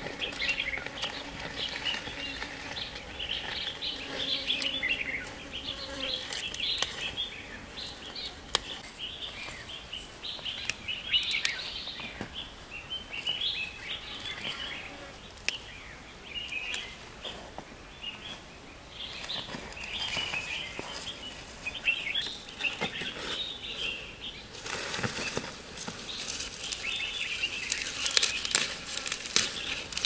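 Birds chirping almost without pause, with scattered clicks and rustles that come thicker near the end.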